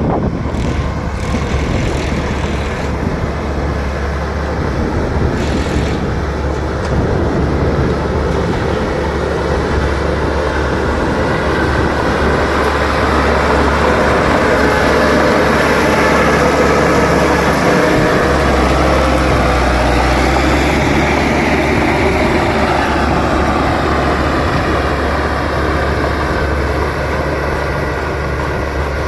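Bulldozer's diesel engine running steadily at work, a low drone with mechanical rumble; the engine note shifts in pitch a little past halfway.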